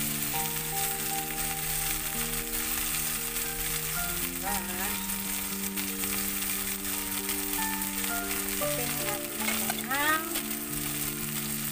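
Corn kernels and squash sizzling steadily in a wok as the sauté cooks, with soft background music of held notes over it.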